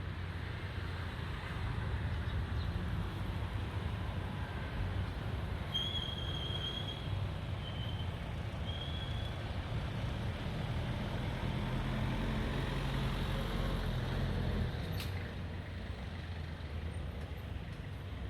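Steady low rumble of street traffic. Three short high squeaks come between about six and nine seconds in, and there is a sharp click near fifteen seconds.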